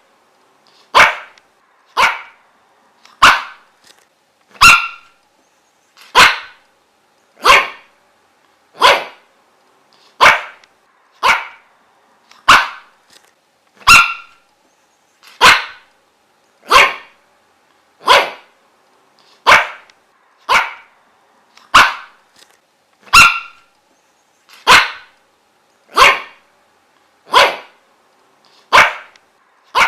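A dog barking single barks over and over at a steady pace, about one every second and a half.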